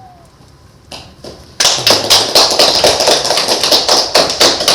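A small audience applauding, beginning with a couple of lone claps about a second in and then breaking into full clapping.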